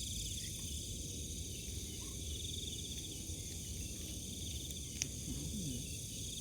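Crickets and other night insects chirping steadily in a fast pulsing trill, over a low rumble. A single sharp click about five seconds in.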